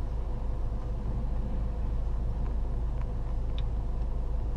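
Steady road and engine rumble heard inside a moving car's cabin, with a faint steady hum and a few light ticks.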